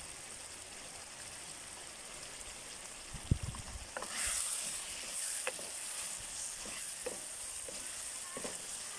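Chicken karahi sizzling as it fries in a wok on a portable gas stove, just after garam masala and black pepper have gone in. A knock comes a little over three seconds in, then a wooden spoon stirs and scrapes the pan in short strokes and the sizzle grows louder.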